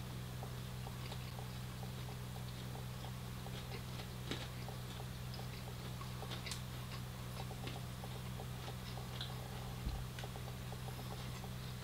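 Close-miked chewing of onion bhaji: many small wet clicks and crunches, over a steady low electrical hum.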